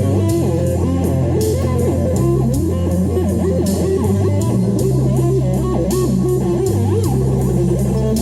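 Electric guitar playing a lead line of quick notes with pitch bends over a backing track of bass and drums.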